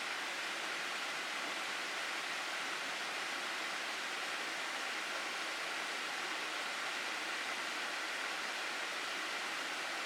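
Water of a mountain gorge stream rushing steadily over rocks, an even hiss with no change.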